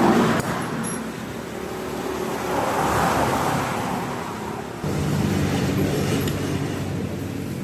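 A motor vehicle's engine running steadily under a noisy hiss; the sound changes abruptly about five seconds in, the low engine note becoming stronger.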